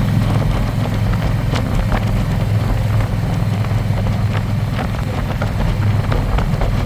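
Harley-Davidson Electra Glide's V-twin engine running at a steady cruising speed, with wind rush over the bike, heard from the passenger seat.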